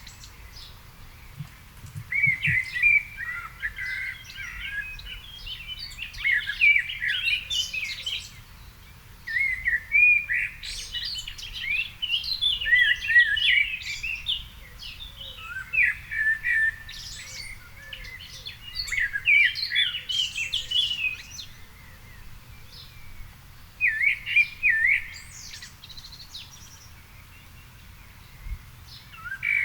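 Songbirds singing in a garden in the evening: warbling, twittering phrases of a few seconds each, broken by short pauses.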